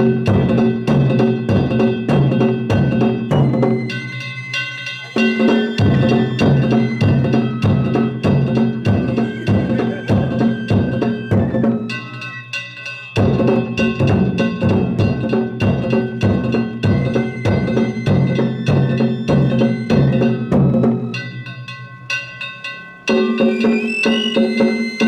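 Danjiri narimono: taiko drums beaten in a fast, steady rhythm together with clanging kane gongs. The drums stop briefly three times while the gongs ring on.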